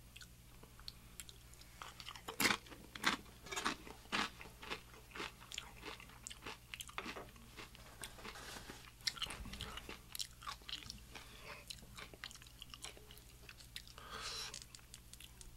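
Close-miked chewing and biting of birria tacos: irregular wet mouth clicks and smacks with some crunch. Near the end comes a longer rustling tear as a taco is pulled apart.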